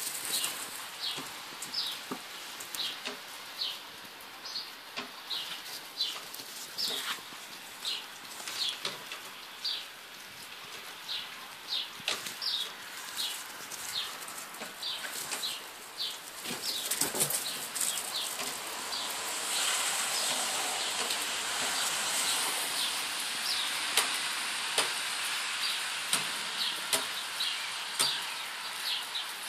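A bird chirping over and over, short high chirps that slide down, about two a second. Scattered light knocks run through it, and a stretch of rustling hiss comes in the second half.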